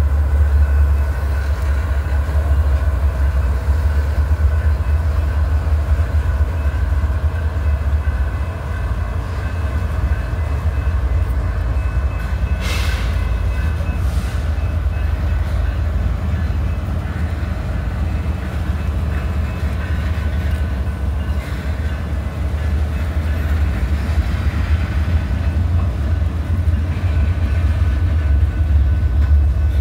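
BNSF freight train rolling through a grade crossing: a steady, loud low rumble of locomotives and freight cars passing. Two short, sharp knocks sound about halfway through.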